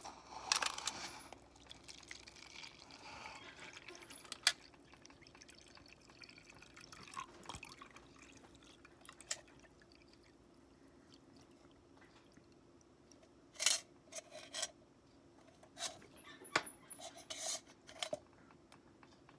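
Scattered small clicks and knocks with short scraping stretches, as of small metal parts and tools being handled, over a faint steady hum.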